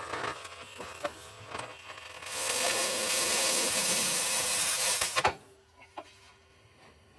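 Metal scraping and knocking as a steel cross member is worked loose and turned in a vehicle frame: a few irregular knocks, a loud rough rasping stretch of about three seconds in the middle ending in a sharp knock, then a couple of lighter knocks.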